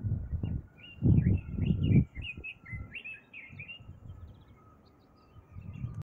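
A songbird singing a quick phrase of varied whistled and warbled notes for about three seconds, over low buffeting noise on the microphone that is loudest about a second in.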